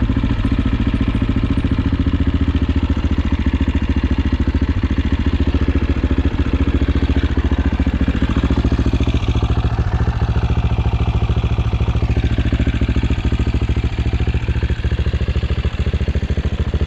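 AJP PR7's single-cylinder engine running steadily at low revs, with an even pulse of firing strokes.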